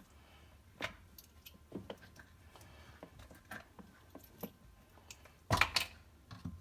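Scattered small clicks and knocks of dishwasher parts being handled, with a louder clatter about five and a half seconds in.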